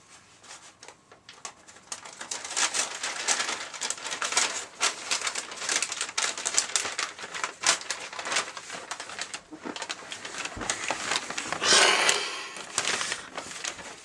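Paper bag puppets rustling and crinkling as they are handled, a run of irregular crackles and rustles that grows louder for a moment about twelve seconds in.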